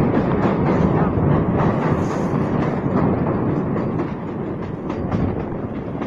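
Train going by: a steady rumble of wheels on the track with many short clicks, slowly growing quieter.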